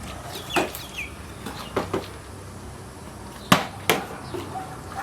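Plastic bottle being flipped and knocking down onto a hard surface, several sharp knocks: one about half a second in, a quick pair near two seconds, and the loudest followed by another around three and a half seconds.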